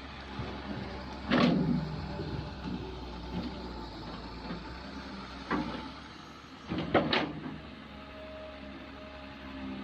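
Kobelco excavator running steadily while digging, with sudden loud clanks and scrapes of the bucket and arm: one about a second and a half in, a smaller one past the middle, and a double one near seven seconds.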